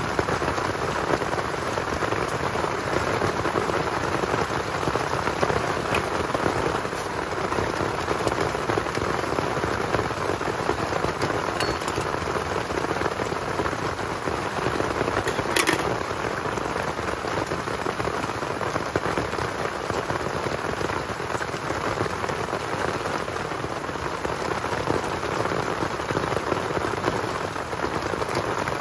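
Heavy rain pattering steadily, with a single sharp clink of a utensil on the metal pot about halfway through.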